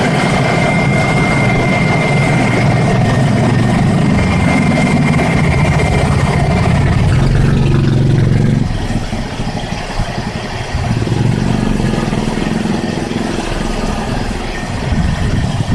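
Toyota Kijang LGX engine idling, with a faint whine early on; the engine sound drops noticeably about halfway through, partly picks up again, and dips once more near the end, as idle speed shifts while the air conditioning load is tried on and off.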